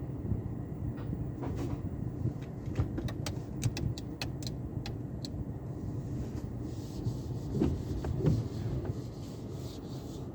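Sonny's automatic car wash tunnel equipment running with a steady low rumble. A run of sharp clicks and taps comes in the first half, then a hiss for the rest, with two louder thumps near the end.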